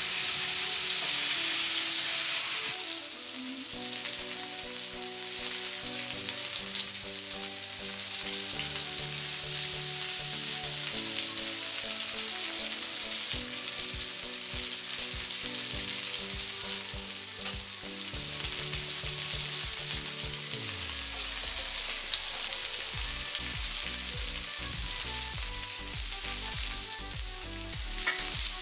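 Cut pieces of chana dal fara shallow-frying in a little hot oil in a frying pan, sizzling steadily. The sizzle is strongest for the first two or three seconds, then settles lower.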